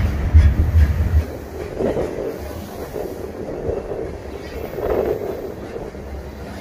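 Freight train cars rolling past: a steady rumble of wheels on the rails with some clacking over joints, heaviest in the first second.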